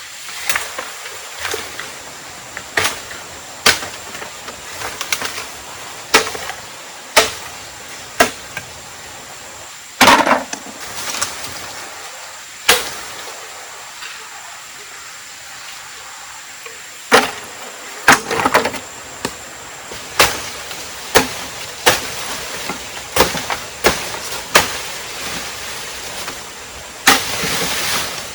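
Repeated chopping blows of a blade into wood, roughly one sharp strike a second, some coming in quick pairs, with the hardest blow about a third of the way in.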